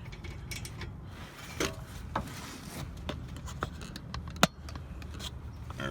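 A few separate metal clicks and knocks as a socket wrench is worked on a car's front brake caliper bracket bolts, over a low steady hum.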